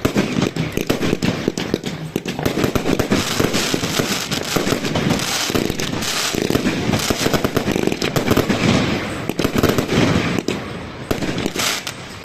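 Fireworks going off in a dense, rapid barrage of bangs and crackles, easing briefly near the end.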